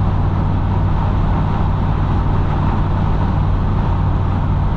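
Steady engine drone and road noise inside the cab of an old Ford F-150 pickup driving at speed, with a constant low hum.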